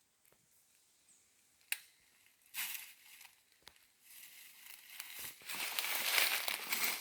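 Crackling, crinkling rustle of dry leaf litter and brush being pushed through, starting a few seconds in and growing louder, with a single sharp click before it.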